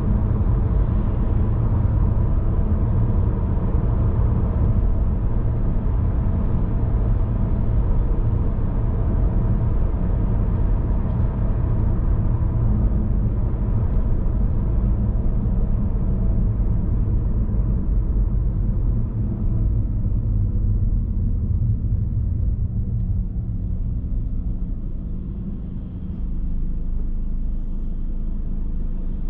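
Car driving along the road: a steady low rumble of road and engine noise that softens slightly late on.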